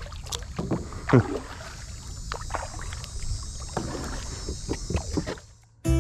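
Kayak paddle dipping and splashing in the water in a run of irregular strokes, over a low steady rumble. The sound cuts off suddenly near the end.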